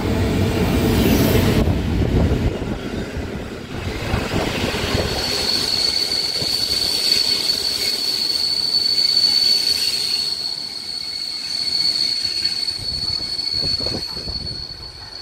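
Passenger train hauled by an EU07 electric locomotive running through on the rails: a loud rumble of wheels on track for the first few seconds, then a steady high-pitched wheel squeal that holds to the end as the carriages roll by.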